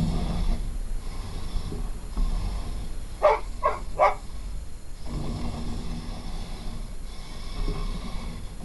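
A dog barks three times in quick succession about three seconds in, over the whine of an RC tracked snow vehicle's motor running in on-and-off spurts.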